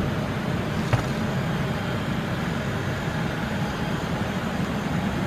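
Steady low rumble of a moving vehicle heard from inside, with a single sharp click about a second in.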